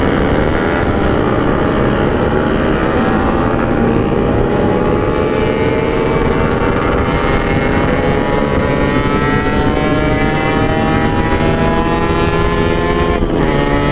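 Yamaha RX-King 135cc two-stroke single-cylinder engine running through a side-mounted aftermarket expansion exhaust, its pitch climbing slowly and steadily as the bike pulls, then dipping briefly and picking up again near the end. A low rushing noise runs underneath.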